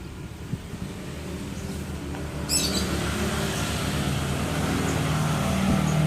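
A motor vehicle engine running and growing louder, with a short burst of high bird chirps about two and a half seconds in.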